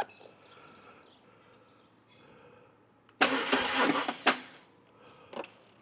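Starter of a BMW R1200GS boxer twin cranking on a flat battery: a loud burst of about a second that cuts off with a click, and the engine does not catch.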